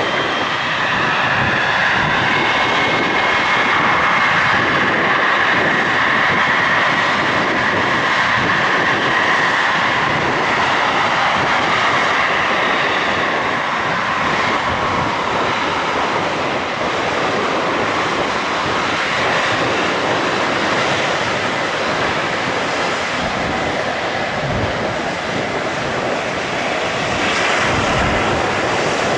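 Aircraft engines running loud: a steady rushing noise, with a higher whining band that fades out about halfway through.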